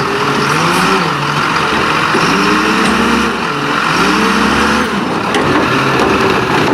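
Garbage truck engine revving up and dropping back several times, its pitch rising, holding and falling in repeated surges.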